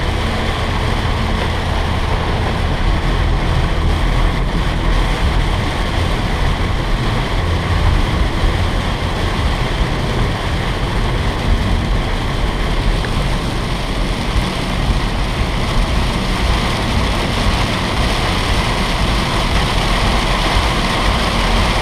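Heavy rain falling hard on a moving car, heard from inside the cabin: a loud, steady rush of rain over the low rumble of the tyres and engine.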